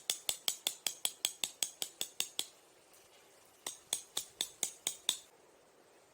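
Two quick runs of light metallic clicks, about five a second: roughly a dozen, a pause of just over a second, then seven more.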